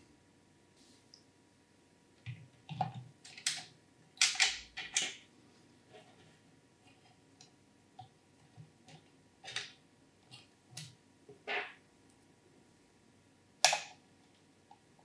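Scattered clicks, snaps and handling noises of PC parts, plastic and metal, being fitted by hand during an AIO liquid cooler installation. The loudest cluster of clicks comes about four to five seconds in, with a sharp single click near the end.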